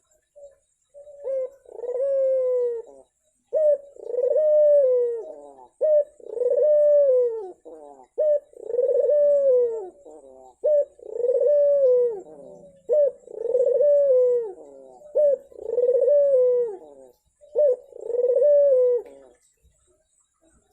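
Ringneck dove (puter) cooing over and over: each call is a short note followed by a long falling coo, about eight in a row at an even pace. It is a lure call meant to set a silent dove cooing.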